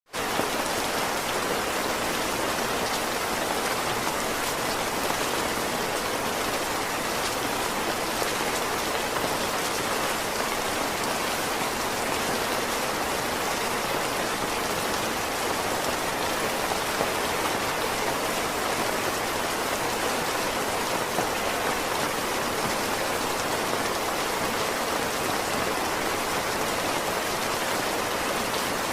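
Heavy rain falling steadily in a dense, even hiss of drops, with no let-up.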